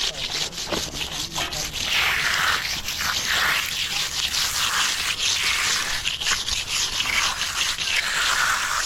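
A hand finishing tool scraped across fresh concrete in repeated strokes, each one swelling and fading.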